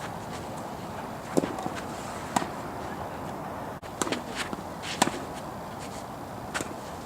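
A tennis rally: four sharp ball strikes, racket hits and bounces, roughly a second apart, over steady wind noise.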